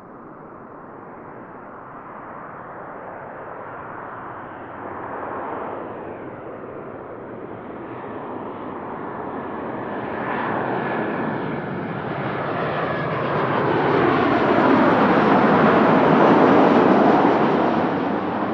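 Jet airliner passing close by, its engine noise swelling steadily to a loud peak near the end, then beginning to fade, with a faint thin whine above the rush partway through.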